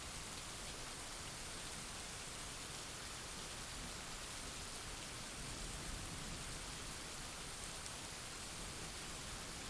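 Steady heavy rain, an even hiss of falling drops with no distinct thunderclap.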